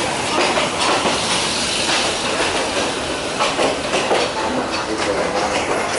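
Yangon Circular Railway train rolling slowly along a station platform, heard from on board: a steady rumble and rattle of the carriage with wheels clacking over the rails.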